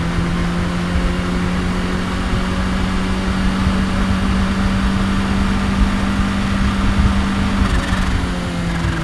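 Kawasaki Ninja H2's supercharged inline-four engine running at a steady cruise, its note holding nearly level. It drops to a lower pitch near the end as the revs come down.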